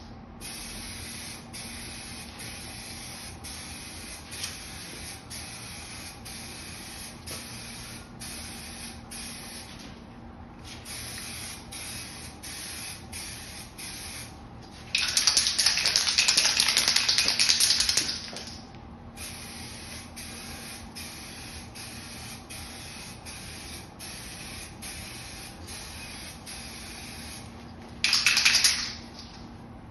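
Aerosol can of 2K clear coat spraying: one long hissing burst of about three and a half seconds midway and a short burst near the end, with a fainter hiss broken by short regular pauses in between.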